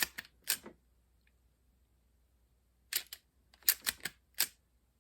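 Eject mechanism of a Macintosh external floppy drive clicking as it is worked by hand: one click about half a second in, then a quick run of about five clicks near the end. The mechanism is sticking, gummed up with old grease.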